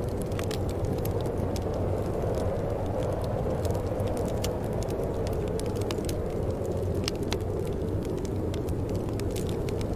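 Wood fire burning in a fireplace: a steady low rush with frequent irregular sharp crackles and pops.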